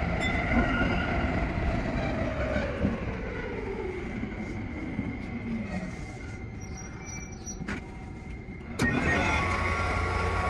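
Tsukuba Express TX-3000 series electric train with its traction motor whine falling steadily in pitch as it slows, under rumbling wheel and track noise. The sound goes quieter for a couple of seconds, then a sharp click about nine seconds in, and the running noise comes back suddenly louder.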